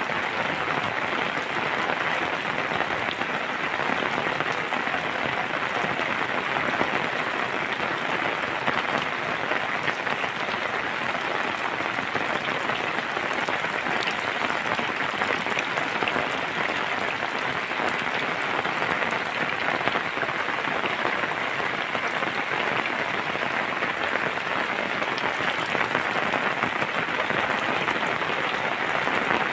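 Rain falling steadily, a constant dense patter of drops that neither swells nor breaks.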